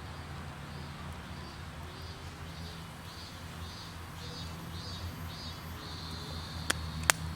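High-pitched chirping calls repeating about three times a second, running into a steady high trill near the end. Under them is a low steady hum, and two sharp clicks come just before the end.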